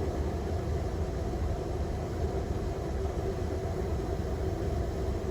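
Steady low rumble inside an airliner cockpit: the engines running at idle while the aircraft holds short of the runway.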